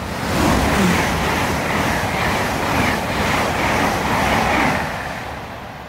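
Great Western Railway Class 800 IET train passing at speed: a rush of wheel and air noise that swells up quickly, holds for about four seconds, then fades away near the end.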